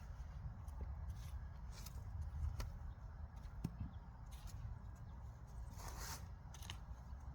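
Scattered scrapes, clicks and rustles of digging through soil and vines for sweet potatoes, with a longer rustle about six seconds in, over a steady low rumble.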